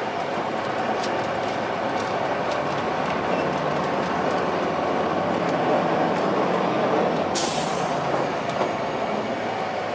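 2002 Blue Bird transit bus with a Cummins ISC diesel running, heard from inside, with a steady drone and light rattles. About seven seconds in, a short burst of air hiss from the air brakes.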